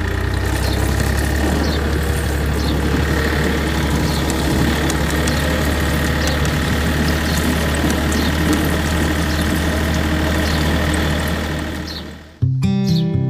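A small motor runs steadily with a low hum and a faint whine, driving a miniature pump that pushes cement slurry out through a pipe. It fades out near the end, and strummed acoustic guitar music takes over.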